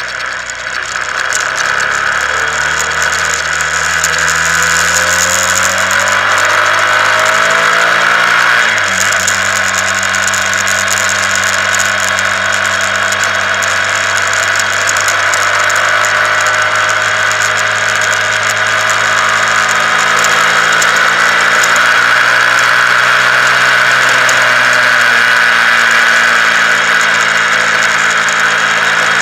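Honda CBR125R's single-cylinder four-stroke engine climbing in revs as the motorcycle accelerates, dropping sharply at a gear change about nine seconds in, then running at a steady speed. Heavy wind noise on the microphone lies over it throughout.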